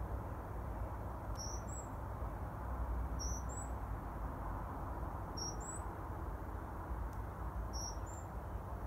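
A small bird calling four times, a short, very high two-note call about every two seconds, over a steady low background rumble.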